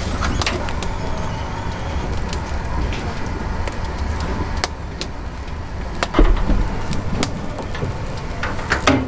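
Busy kitchen sounds over a steady low rumble: scattered small clicks and clinks, with a louder knock about six seconds in and another near the end.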